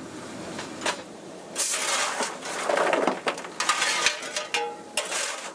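Rügen narrow-gauge steam locomotive 52 MH standing at a halt, giving off irregular bursts of steam hiss with light metallic clatter.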